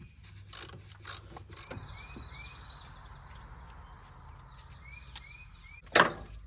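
Scattered metallic clicks and knocks of hand-tool work on a car with its engine off, including ratchet-like clicking, with a louder knock about six seconds in.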